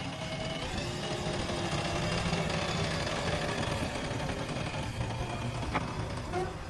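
JCB backhoe loader's diesel engine running steadily, with a single sharp knock near the end.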